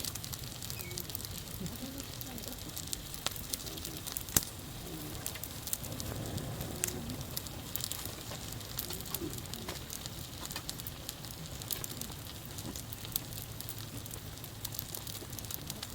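Bonfire crackling, with frequent sharp pops and snaps over a steady hiss; one pop about four seconds in is the loudest.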